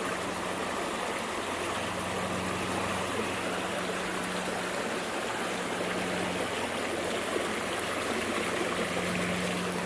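Creek water running and babbling steadily over the rocks, with a faint steady low hum underneath.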